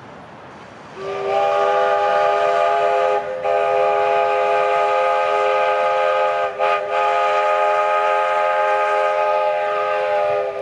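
Steam whistle of a 1/3-scale live-steam locomotive blown in one long blast of about nine seconds, with several steady tones sounding together over a hiss of steam. The blast dips briefly twice.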